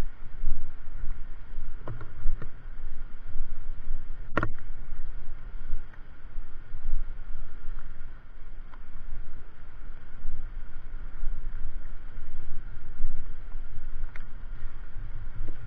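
Low, gusting wind rumble on the microphone of a moving motorcycle, with its engine running underneath, and a single sharp click about four seconds in.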